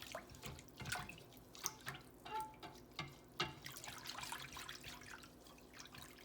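Whisk stirring an orange juice and cornstarch sauce in a pan: soft liquid sloshing with irregular light clinks of the whisk against the pan.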